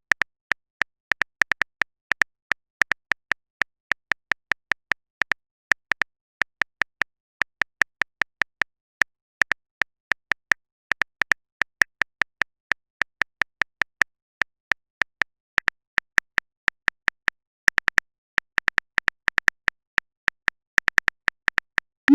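Phone keyboard typing sound effect: a long run of short, sharp clicks at an uneven pace of about three to four a second.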